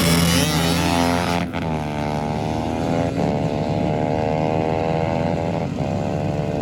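Motorcycle engine at full throttle accelerating away down a drag strip, its note breaking sharply three times as it shifts up through the gears.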